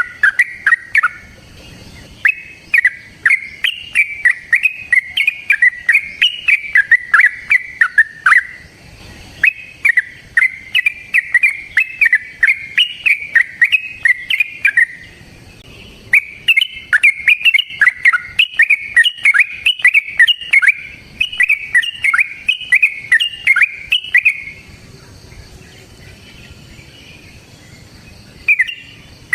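Yellow-vented bulbul singing long, rapid runs of bubbly, jumping notes, its 'ropel panjang' song. It breaks off briefly twice, then pauses for about four seconds near the end before starting up again.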